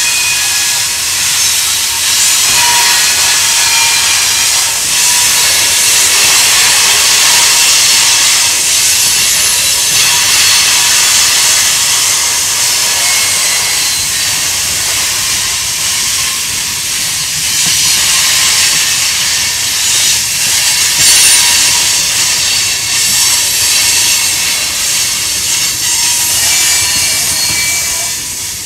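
Freight train's tank cars and covered hoppers rolling past on a curve, steel wheels hissing against the rails with high squeals that come and go.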